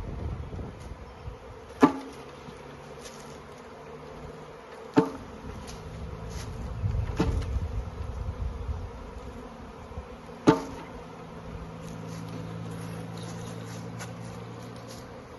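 Honey bee swarm buzzing steadily, broken by four sharp knocks a few seconds apart.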